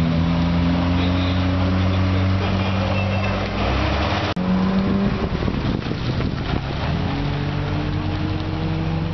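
Car engines running at low revs as cars move off slowly, with a sudden break about four seconds in. Near the end a four-cylinder exhaust note, the A63 Celica's 4A-G twin-cam through a Fujitsubo muffler, rises gently as it pulls away.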